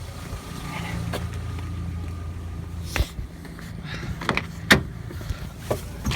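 A car's steady low hum, with a faint thin whine for the first couple of seconds, then a few sharp clicks and knocks.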